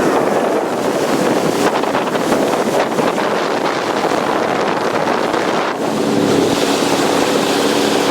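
Sea-Doo jet ski under way: a steady engine hum under heavy wind buffeting on the microphone and rushing water. The engine's tone comes through more clearly from about six seconds in.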